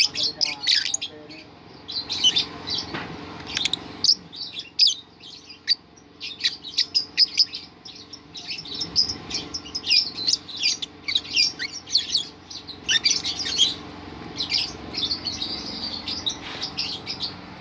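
Lovebird chirping in fast runs of sharp, high-pitched notes, coming in bursts with short pauses between them: the rolling 'ngerol' chatter that bird keepers prize.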